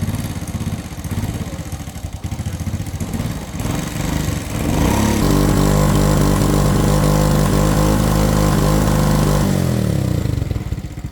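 Old SYM motorcycle's single-cylinder engine idling with an even pulse. About five seconds in it is revved up and held at a steady higher speed for several seconds, then drops back to idle near the end. This is the bike being checked for white exhaust smoke and hard starting.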